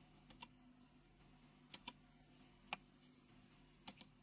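Faint computer mouse clicks, mostly in quick pairs, four times over a few seconds.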